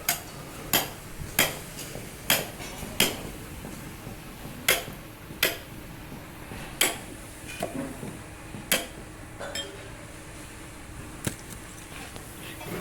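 A hammer striking metal about ten times in an uneven rhythm, each blow a sharp clank. The blows come quickly at first and thin out in the second half, with a few lighter taps and clatter between them.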